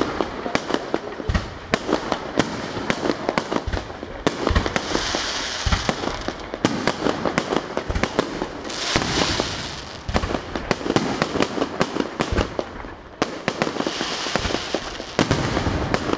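Aerial fireworks display: a rapid, continuous barrage of bangs and crackles from bursting shells, with stretches of hiss about five, nine and fourteen seconds in.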